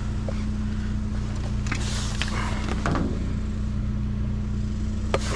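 A vehicle engine idling with a steady low hum, over scattered clicks, knocks and rustles of junk being shifted about in a dumpster.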